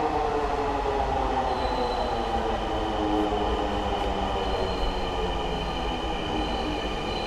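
Electric metro train of Dhaka MRT Line 6 pulling into the station and braking. Its motors give a whine of several tones that falls in pitch over the first couple of seconds, then runs on as steady high tones.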